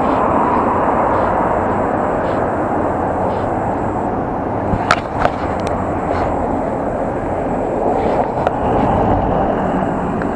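Wind rushing over the microphone of a camera carried on a moving bicycle, with the rumble of the ride underneath and a couple of sharp clicks about halfway through.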